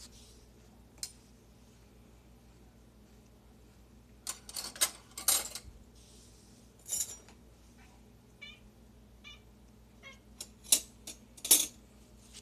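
Domestic cat making an odd, unusual vocalization in short repeated bursts, mixed with sharp clinks of silverware being put away.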